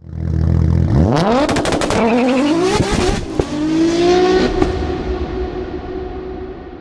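Car engine accelerating hard: after a second of low running, the pitch climbs in three pulls, dropping between them as if shifting gears, with a quick run of sharp cracks during the first pull. It then fades away.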